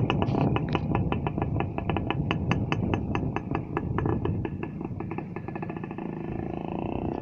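Voskhod single-cylinder two-stroke motorcycle engine running with the silencer baffles removed: a fast, even train of sharp exhaust pops at low revs, with the revs rising near the end.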